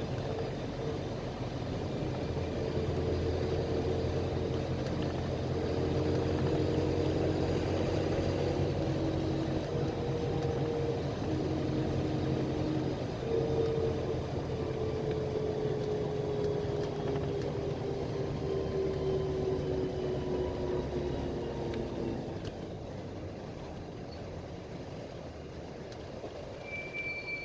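Interior of a PAZ Vector Next bus under way: the engine and drivetrain run with a steady low hum and a whine. From about 13 seconds in the whine glides slowly lower, and around 22 seconds it stops and the sound gets quieter. Near the end a high steady beep starts.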